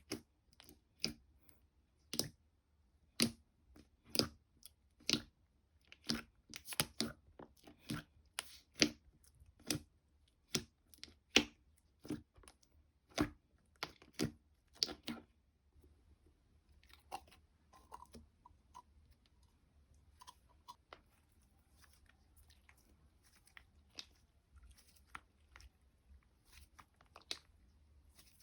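Slime being pressed and stretched by hand, giving crisp pops and crackles, one or two a second for about the first half, then softer and sparser.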